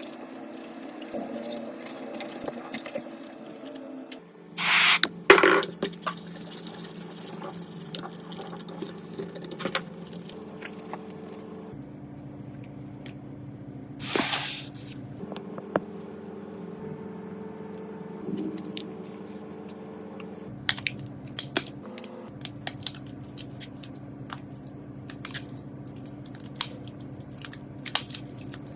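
Two short hissing sprays, one about five seconds in and another about fourteen seconds in, amid light clicks and taps of small parts being handled during phone repair work.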